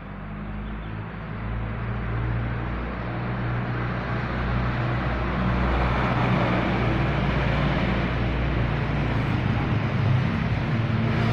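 Motor vehicle engine running with a steady low hum, growing louder over the first several seconds and then holding steady.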